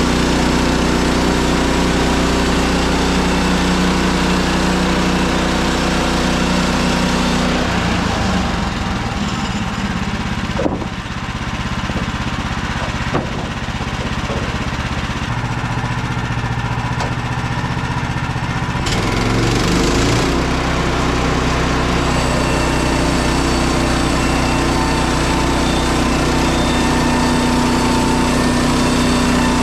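Woodland Mills HM130MAX sawmill's gas engine running steadily. Its note shifts for about ten seconds in the middle, with two sharp knocks, then settles back to the first note.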